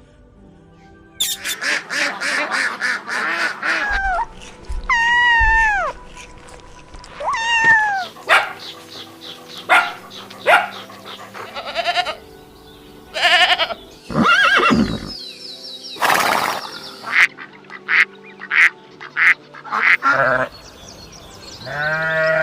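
A string of short farm-animal calls from different animals, cut one after another. The string includes a fast run of clicks early on and two pitched calls that rise and fall, about five and seven seconds in.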